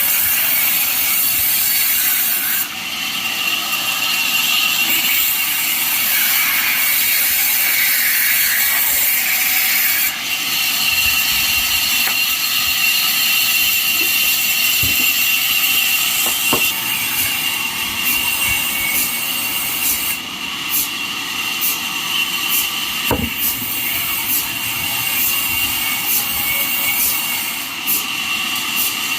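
Sawmill blade cutting through jackfruit wood: a steady high whine, with scattered clicks and knocks in the second half.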